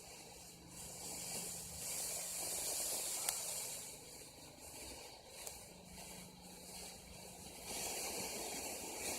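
A lit firework hissing as it burns, swelling and fading, with one faint pop about three seconds in.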